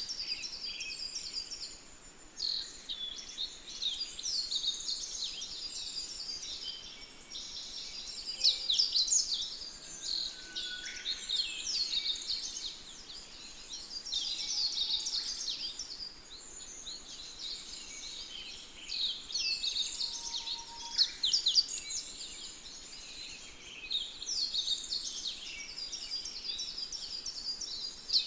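Birds singing: a dense, continuous run of rapid high chirps and trills, several phrases overlapping.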